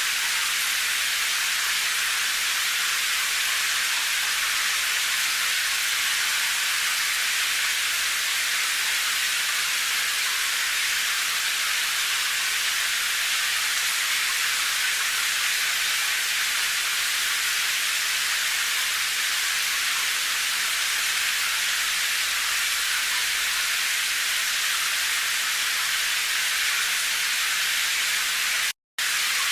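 Steady, even hiss of heavy rain, with no separate drops standing out. It cuts out to silence for a split second near the end.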